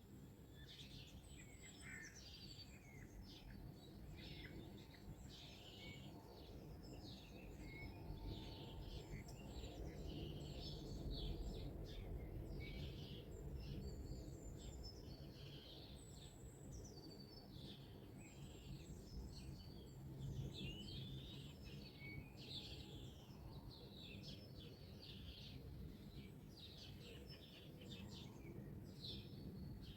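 A chorus of many songbirds singing at once, dense overlapping chirps and trills, over a steady low background rumble.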